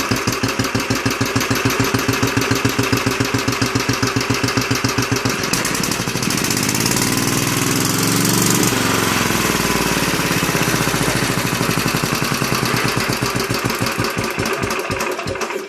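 Small stationary petrol engine, just started by hot-wiring, running with an even firing beat. About six seconds in it revs up, then drops back to idle about three seconds later, and it dies away at the very end.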